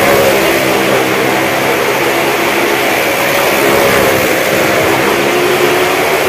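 Car and motorcycle engines running hard together as they circle the vertical wooden wall of a well-of-death drum: a loud, continuous engine noise whose pitch rises and falls gently.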